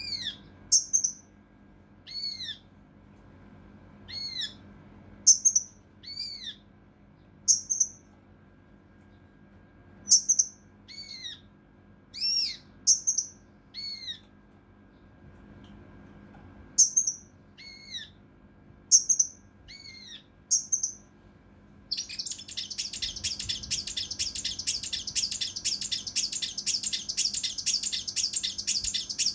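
Kinoi (cucak rante mas) songbird giving short, sharp arched calls, one or two at a time with pauses. About two-thirds of the way through they break into a dense, rapid run of calls.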